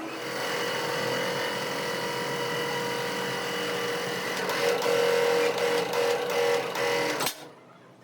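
Workshop power tool running steadily with a constant whine, cutting off abruptly about seven seconds in.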